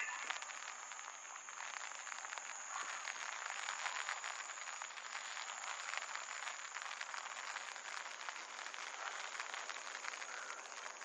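Steady rain pattering, a dense crackle of countless small drops.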